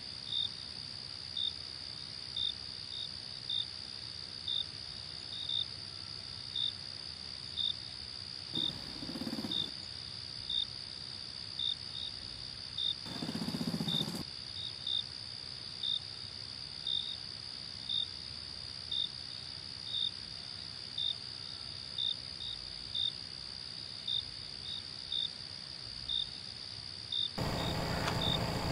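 Night insects, crickets, chirping: a steady high trill with a sharper chirp repeating every second or so, slightly irregular. Two brief low rushes of sound come about nine and fourteen seconds in, and a louder, fuller noise cuts in suddenly near the end.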